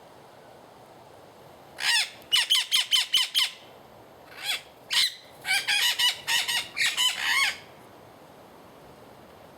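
Wild parrots squawking: two rapid runs of harsh, downward-sweeping calls with a couple of single calls between them, starting about two seconds in and stopping a couple of seconds before the end.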